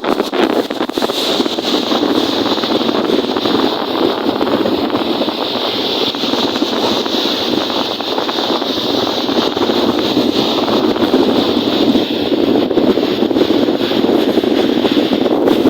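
Strong wind blowing across the microphone over lake waves washing, a steady rushing noise with no distinct breaks.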